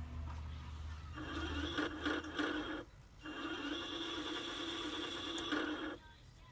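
Electric drive motors and gearing of a 3D-printed RC Nashorn tank model whirring steadily in two runs, with a short stop about three seconds in. A low hum fades out at the start.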